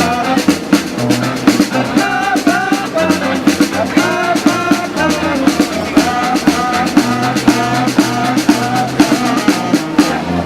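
Street band playing an upbeat funky tune: a drum kit keeps a steady beat under a bending melody line and a bass line. The music stops right at the end.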